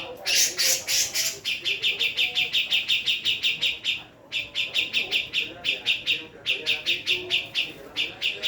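Female Javan cucak jenggot (grey-cheeked bulbul) calling: a rapid, even chatter of about eight high notes a second, given in runs with short breaks. It opens with a harsher, noisier burst in the first second or so.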